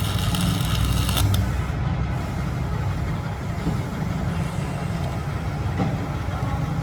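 A machine running steadily with a low hum. A click about a second in, after which a high whine stops.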